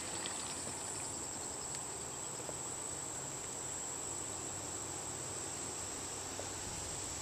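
Insects trilling in a steady, high-pitched chorus that runs on without a break.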